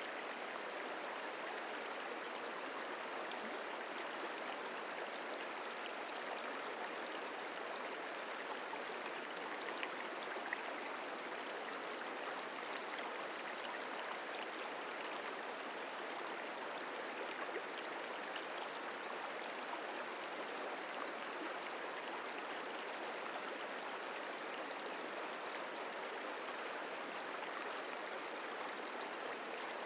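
The Merced River flowing: a steady, even rush of running water, with a few faint ticks of splashing.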